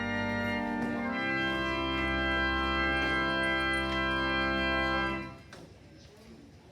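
Church organ playing sustained chords, changing chord about a second in and holding the new chord until it stops about five seconds in.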